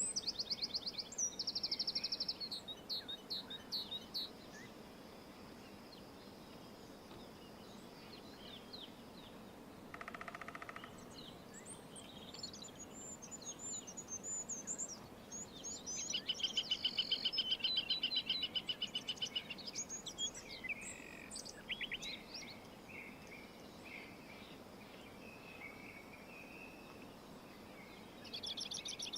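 Songbirds singing in the wild: repeated high, rapid trills and scattered chirps, loudest at the start and again for a few seconds past the middle, with a single lower, buzzy call about a third of the way in, over a steady faint outdoor hiss.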